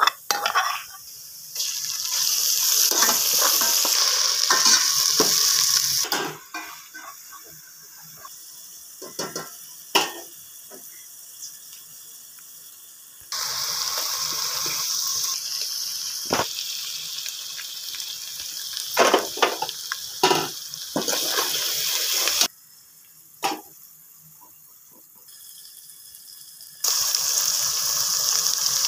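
Onion and green masala mixture sizzling in hot oil in an aluminium cooking pot, in stretches of steady hiss that start and stop abruptly, broken by sharp knocks and clinks of a steel ladle and knife against the pot.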